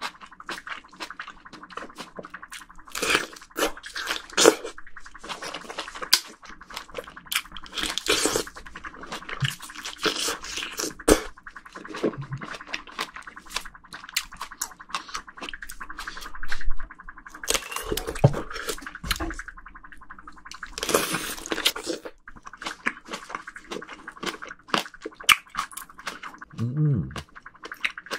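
Close-miked eating of juicy plums: repeated wet bites, chewing and slurping mouth sounds, with many short sharp clicks.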